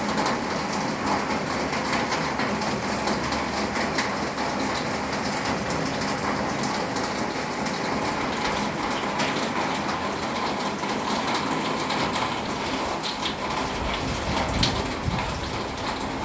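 Rain falling steadily in a thunderstorm, an even hiss of drops. A low rumble rises in the last few seconds.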